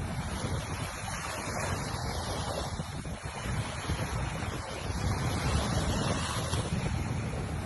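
Ocean surf washing onto a beach, a continuous wash that swells and eases slowly, with wind buffeting the microphone.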